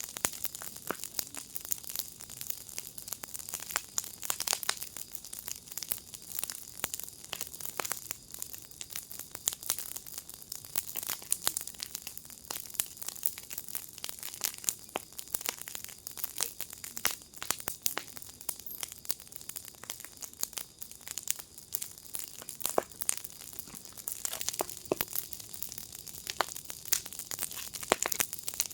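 Wood fire in a firepit crackling steadily, with dense irregular pops and snaps over a soft hiss.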